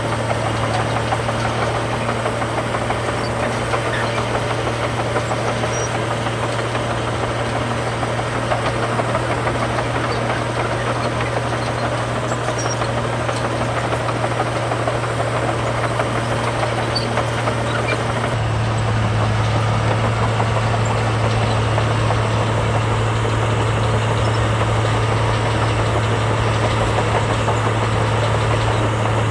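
Heavy diesel engine of earthmoving machinery running steadily, with a rough, knocking-free drone; the engine note shifts slightly lower and grows a little louder about two-thirds of the way through.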